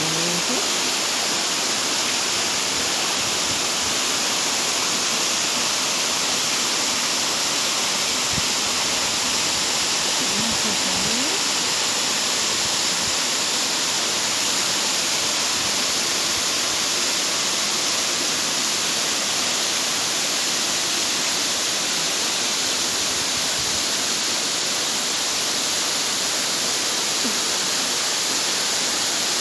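Waterfall with water crashing down in a loud, continuous rush.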